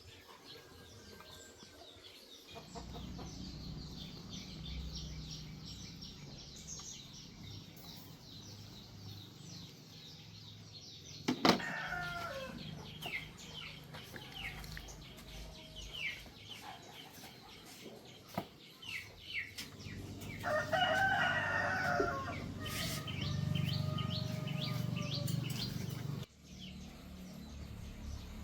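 Chickens clucking, with a rooster crowing about two-thirds of the way in, over a steady low hum. A sharp knock comes about eleven seconds in.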